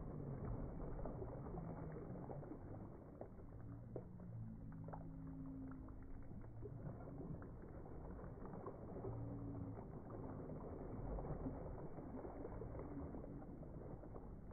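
Lake water lapping and splashing.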